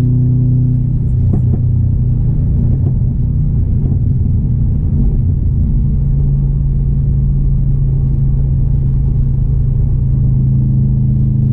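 2016 Subaru WRX STI's turbocharged 2.5-litre flat-four running on the road: a steady drone that breaks into a rougher rumble about a second in, then settles back into a steady drone about halfway through.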